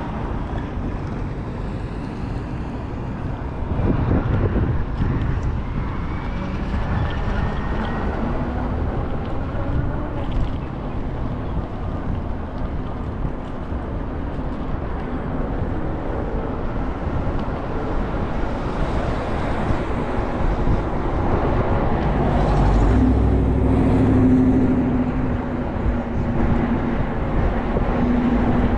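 Vehicle riding through city traffic: a steady road and engine rumble, with a low motor hum rising from about two-thirds of the way through.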